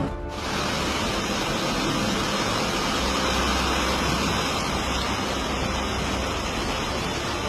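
Heavy rain pouring down in a storm: a loud, steady rush of water noise that cuts in abruptly just after the start.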